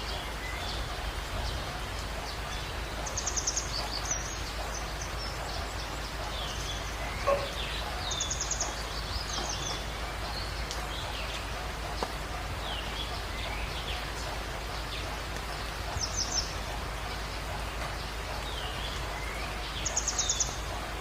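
Steady rain, with birds calling over it: a short rapid high trill four times, among scattered chirps, and one sharp tap about seven seconds in.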